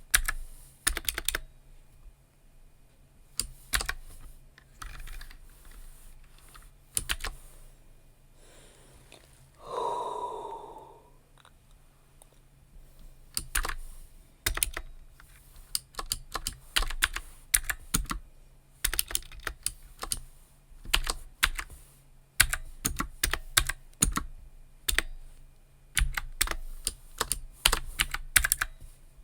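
Computer keyboard typing in uneven bursts of keystrokes, with short pauses between the bursts.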